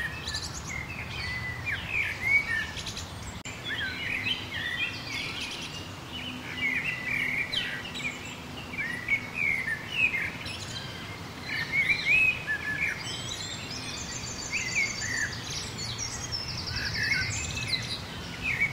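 Many small birds chirping and singing, short chirps throughout, with two fast, high trills near the end, over a faint steady low background hum.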